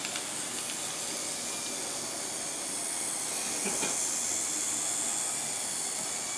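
Bemo narrow-gauge model train running on the layout track: a steady hiss with a few faint clicks.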